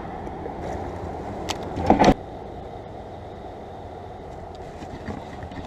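Steady rushing background noise with a few sharp knocks about one and a half to two seconds in, the loudest just after two seconds.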